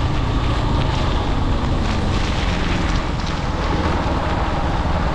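Motorbike engine running steadily, with wind buffeting the microphone.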